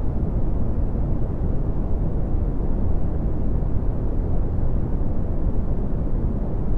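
Red (Brownian) noise: a steady, deep rumbling hiss, strongest in the low end and falling away in the highs, unchanging throughout.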